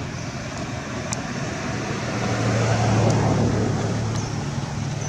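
A motor vehicle passing by: a low engine hum swells to its loudest about three seconds in, then fades.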